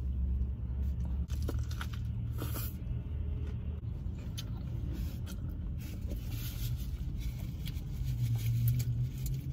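A person biting into and chewing a large cheeseburger, with scattered short wet, crackly mouth and food sounds, over a steady low rumble in the car's cabin.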